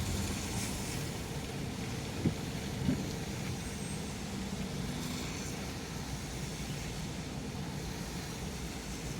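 Steady road noise of a car driving, heard from inside the cabin, with two short knocks a little over two seconds in and again half a second later.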